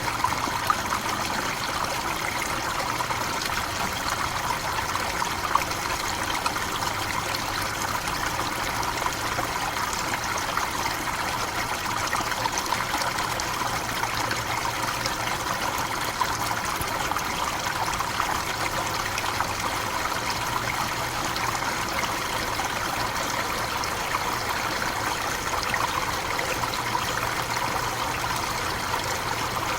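Tropical forest waterfall: water falling and running in a steady, even rush.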